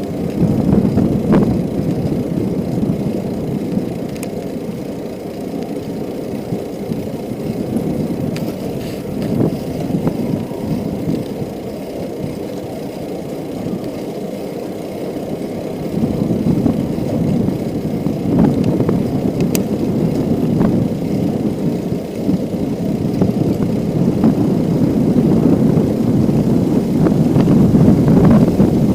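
Bicycle in motion: a steady rumble of tyres rolling over the ground with wind buffeting the microphone, and scattered small knocks and rattles from the bike. It gets louder toward the end.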